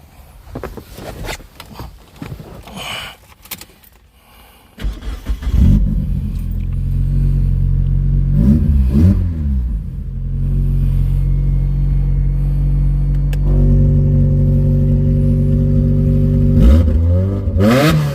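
A few scattered clicks, then a Mazda NB Miata's four-cylinder engine starts about five seconds in and idles through its exhaust. It is revved twice, briefly, once around the middle and once near the end, and the idle steps up slightly a few seconds before the end.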